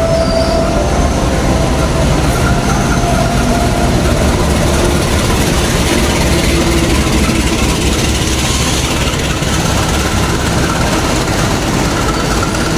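Train moving through the station: a steady loud rumble of wheels and cars on the rails, with faint thin squealing tones now and then.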